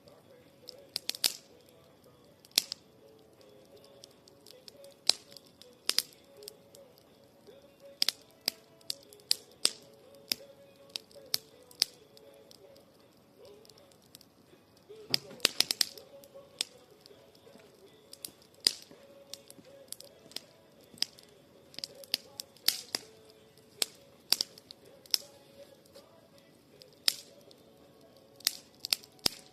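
Wood campfire crackling, with irregular sharp pops and snaps and a quick flurry of them about fifteen seconds in.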